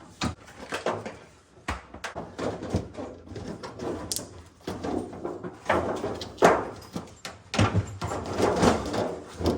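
Irregular knocks, scrapes and rattles of a refrigerator freezer's rear panel being handled and fitted into place.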